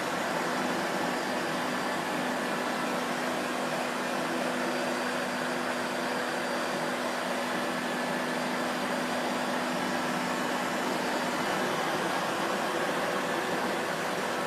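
Vacuum cleaner running steadily, its motor and airflow making an even, unbroken noise with faint steady hums underneath. One low hum fades out about eleven seconds in.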